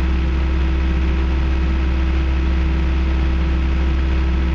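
John Deere 650J crawler dozer's diesel engine running steadily at a little over half throttle.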